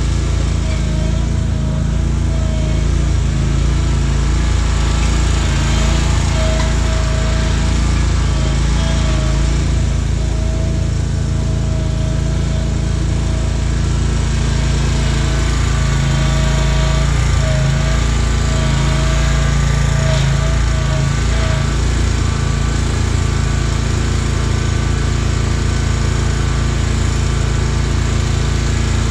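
Riding lawn mower engine running steadily, with a wavering whine on top that stops about two-thirds of the way through.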